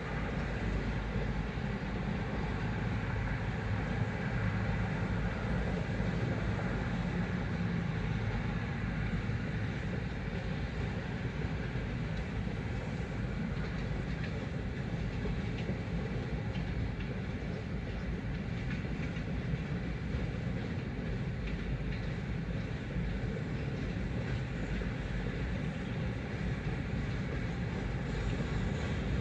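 Freight train rolling past, a steady rumble of cars moving over the rails.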